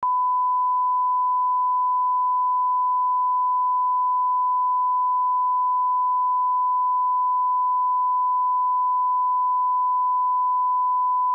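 Steady 1 kHz sine-wave line-up test tone at −18 dB, the broadcast reference level, held unbroken at one pitch and one loudness.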